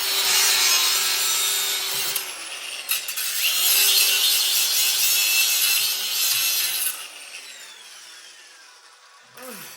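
Angle grinder cutting through steel plate: a steady, loud high hiss with a motor tone under it, easing briefly about two seconds in. It cuts off about seven seconds in, and the motor is heard winding down.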